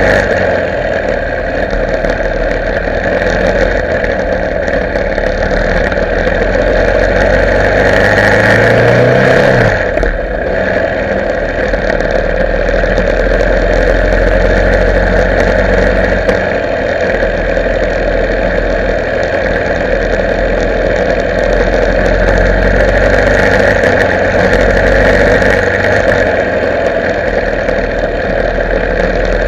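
Motorcycle engine running while riding, under a steady rushing noise. About eight seconds in, the engine note rises for a couple of seconds, then drops suddenly and settles back to a steady drone.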